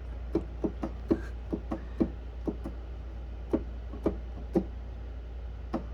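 Short, dull, muted notes or knocks from a clavinet, about a dozen at uneven intervals, each dying away quickly, over a steady low hum.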